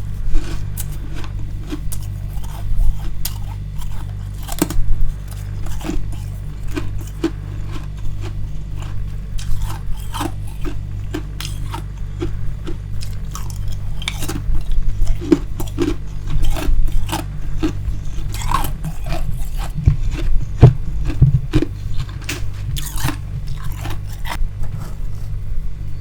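Close-up biting and chewing of freezer frost: dense, irregular crunching crackles as the powdery ice is crushed between the teeth, over a steady low rumble.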